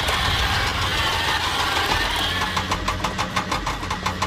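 Vehicle engine running with a steady low hum. About three seconds in, a fast, even rattling pulse sets in.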